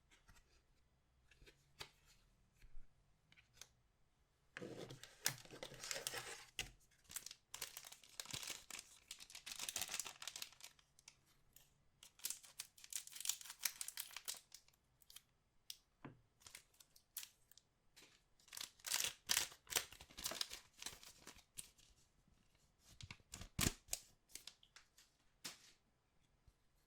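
Plastic wrapping of trading-card packaging being torn and crinkled by hand, in several bouts of a few seconds each with small clicks and taps between them.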